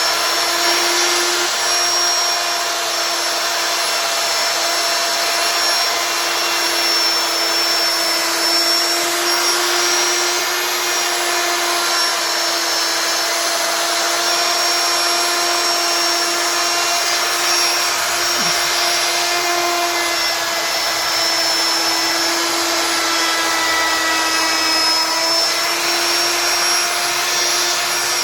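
CNC wood router's spindle running steadily as it carves wood, a constant whine over a dense cutting hiss.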